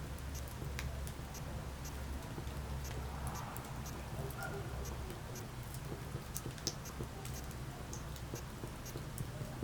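Wood fire crackling in a fireplace: irregular small pops and snaps over a steady low hum.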